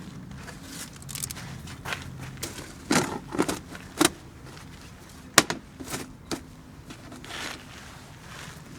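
Irregular knocks, clunks and light rattles of gear being handled during camper-van setup, the loudest a sharp knock about five seconds in, over a low steady hum.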